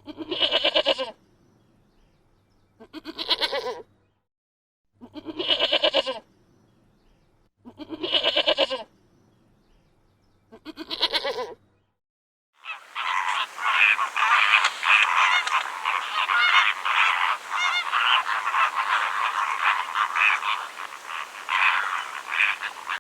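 Farm animal calls: five drawn-out pitched calls, one about every two and a half seconds, then about halfway through a loud, dense chorus of many animals calling at once, overlapping continuously.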